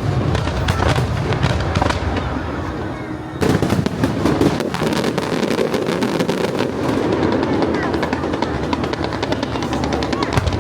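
Fireworks display going off in a continuous barrage of bangs, louder from about three seconds in and turning into a rapid, dense crackling in the second half.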